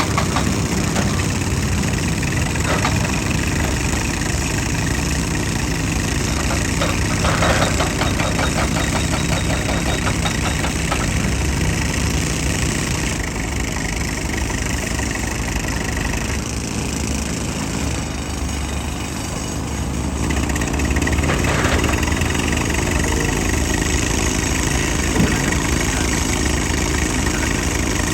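Excavator's diesel engine running steadily, with a rapid clattering of quick even ticks for a few seconds about a quarter of the way in.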